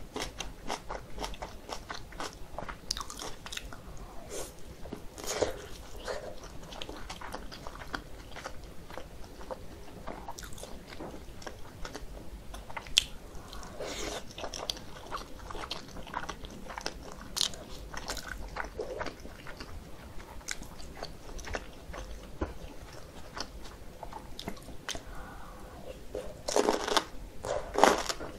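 Close-miked eating: dumplings and kimchi being bitten and chewed, many small crunches and clicks, with the loudest crunching near the end.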